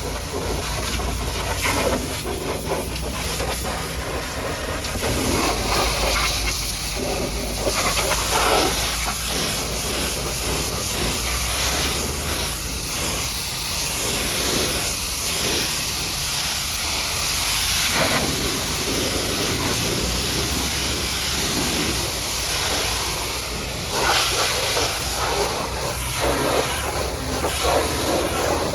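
High-pressure washer jet hissing as it sprays mud off a truck, its sound swelling and shifting as the spray moves across different surfaces, over a steady low hum.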